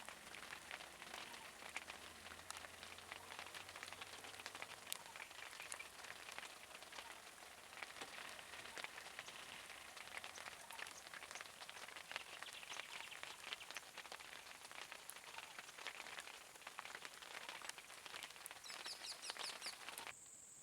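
Heavy rain falling, a dense hiss of many small drop impacts, with a brief run of quick high chirps a second or so before it cuts off abruptly near the end.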